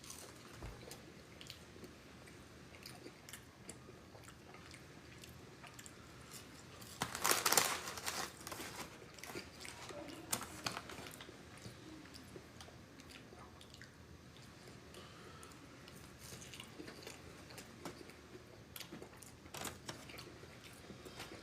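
A person chewing and biting fried chicken wings close to the microphone, a run of small crunches with a louder burst of crunching about seven seconds in.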